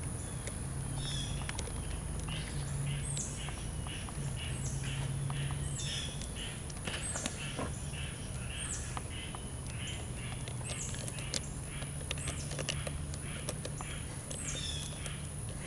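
Birds calling: repeated high chirps that sweep downward, about one a second, with a faster pulsing chatter between them, over a steady low hum. A few faint clicks come from a screwdriver tightening a battery terminal screw.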